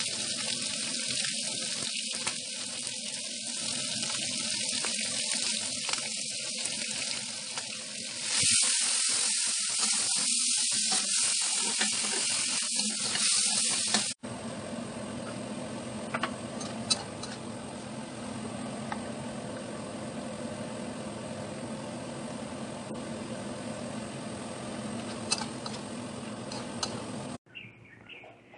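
Chicken pieces with spices and a little water sizzling in a steel wok, the hiss getting louder about a third of the way through. About halfway the sound changes to a duller, steadier frying with a few sharp clicks of a metal spatula stirring the food.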